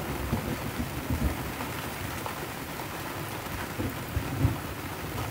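Heavy tropical downpour on and around a sailboat at anchor, a steady hiss of rain, with low rumbling thumps. The strongest thump comes about four and a half seconds in.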